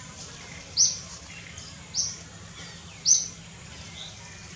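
A bird repeating a short, high-pitched chirp three times, a little over a second apart, over a steady low background hum.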